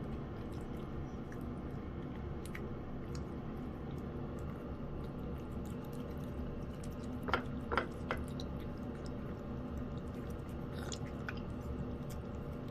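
A cat chewing and eating wet cat food in gravy, with small wet clicks and smacks throughout. Three sharper clicks come close together a little past the middle, over a steady low hum.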